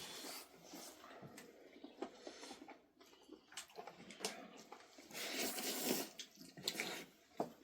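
Water splashing and running, louder for about a second near the end, with small knocks and clicks mixed in.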